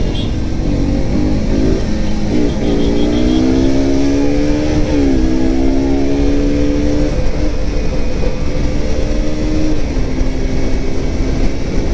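Single-cylinder sport motorcycle engine accelerating hard in a drag, its pitch climbing, dropping suddenly at a gear change about five seconds in, then climbing again and holding steady. Wind rumble on the microphone underneath.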